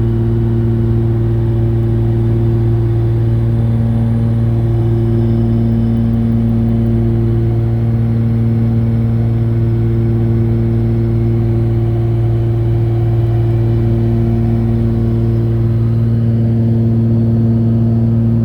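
Cabin drone of a Cessna 414A's two turbocharged piston engines and propellers in steady cruise: a constant, loud, low hum at one even pitch.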